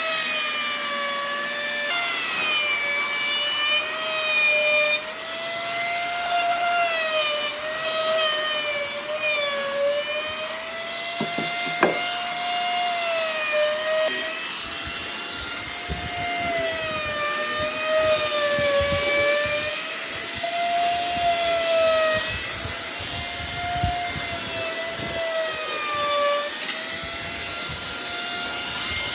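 Electric power tool working wood: its motor whine sags and recovers in pitch every couple of seconds as it bears into the wood, over a rough grinding rasp.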